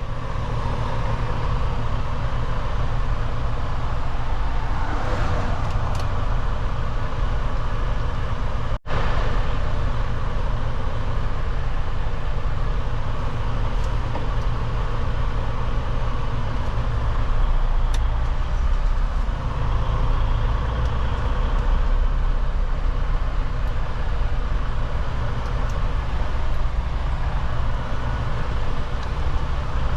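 Semi truck's diesel engine running steadily at low speed, heard from inside the cab as a constant low rumble.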